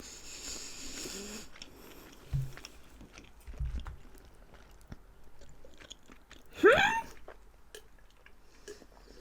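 Biting and chewing pizza close to the microphone, with soft mouth sounds and small thumps. About two-thirds of the way in comes one short, rising, voice-like squeak.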